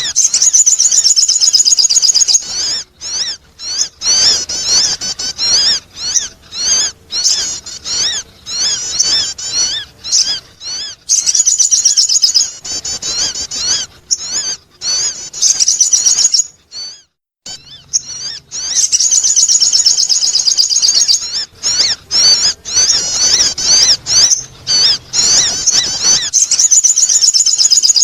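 Sogon bird lure call: a loud, fast, high-pitched chattering of chirps in long bouts, with brief breaks and one pause of about a second and a half about two-thirds through.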